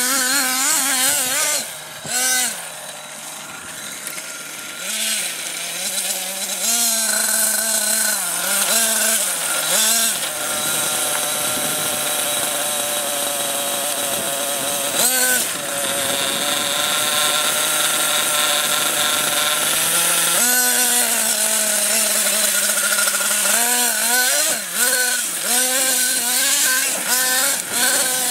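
Small nitro engine of an RC monster truck buzzing at high pitch, rising and falling with the throttle. It holds a long steady high run in the middle, then gives a quick series of short throttle blips near the end.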